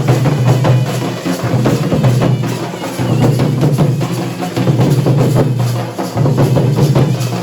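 Fast, dense dhol and nagada drumming, the strokes packed closely together over a strong, nearly continuous low drum resonance.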